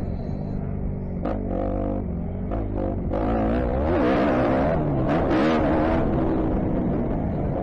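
2015 Kawasaki KX250F's four-stroke single-cylinder engine being ridden on a motocross track, its revs rising and falling repeatedly, with a few brief noisy hits.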